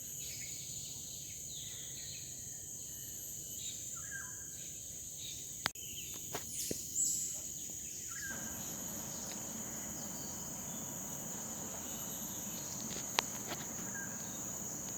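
Steady, high-pitched chorus of forest insects, with a few sharp clicks about six seconds in.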